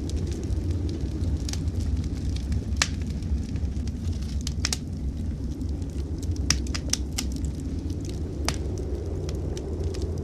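Wood fire in a fireplace crackling, with sharp, irregular pops scattered through it over a steady low rumble.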